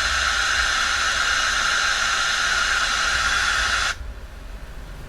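Loud FM radio static hiss from a portable MP3/FM player's speaker in FM mode, cutting off suddenly near the end.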